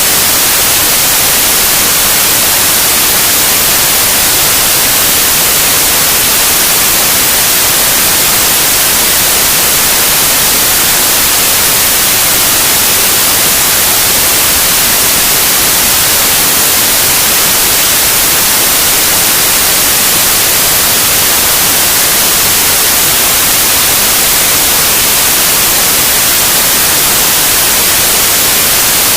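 Loud, steady white noise: an even, unbroken hiss, brightest in the treble, with no change in level.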